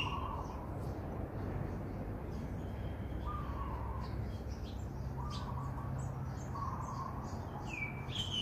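Birds calling: a short mid-pitched call repeated four times, with higher curving chirps at the start and near the end and faint quick chirps in between, over a steady low background noise.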